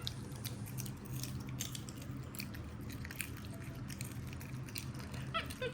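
Pet monkeys crunching and chewing popcorn: scattered small crisp clicks over a low steady hum.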